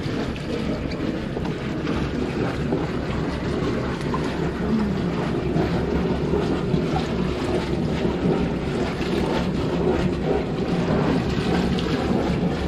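Engines of a Carver 504 motor yacht idling steadily in a lock chamber, a low rumble, with wind on the microphone.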